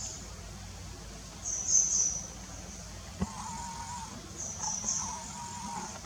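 Small birds chirping: two short clusters of very high-pitched chirps, with a click a little past the middle followed by a thin, steady whistle.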